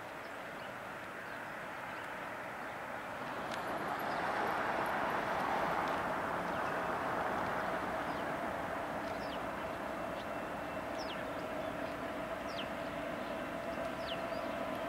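Approaching CSX diesel locomotive and its container train: a steady engine and rolling noise that swells about four seconds in and then holds.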